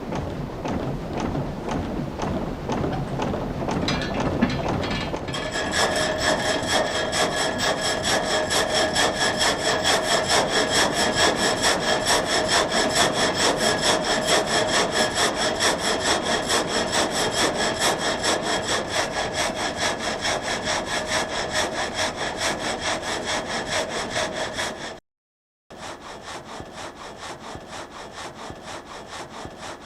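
Water-driven vertical frame saw (gang saw) cutting through a log, a fast, even rasp from its reciprocating strokes. From about five seconds in a steady ringing pitch rides over the rasp. The sound cuts out for a moment near the end and comes back quieter.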